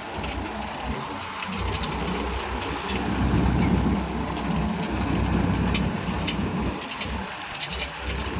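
Tractor diesel engine running under load, its low rumble rising louder from about three seconds in and easing off near the end, with scattered sharp clicks and crackles over it.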